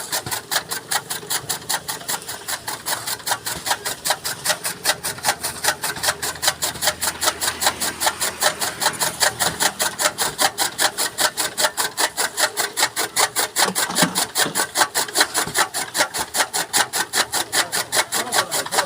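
Chaff cutter (toka machine) chopping maize stalks into fodder: a steady, rapid rhythm of chopping strokes, about four to five a second.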